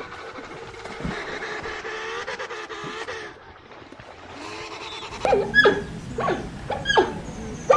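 A dog yelping: a long wavering cry, then from about five seconds in a quick run of short yelps, each dropping sharply in pitch.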